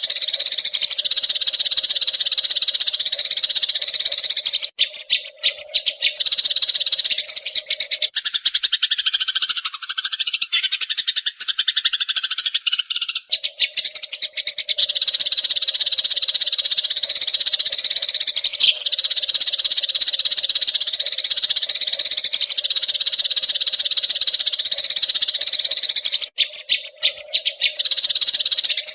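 Eurasian tree sparrows chirping in a dense, continuous chatter. It breaks off briefly about five seconds in and again near the end. For a few seconds in the first half it gives way to a lower, warbling run of calls.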